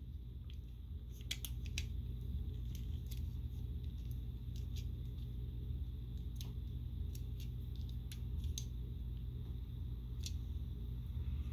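Scattered light clicks and taps of a plastic Transformers action figure's parts being handled and moved during transformation, over a steady low hum.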